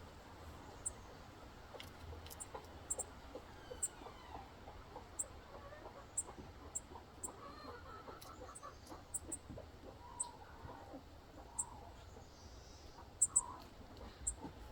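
Faint clucking of chickens, with short sharp high ticks scattered through it.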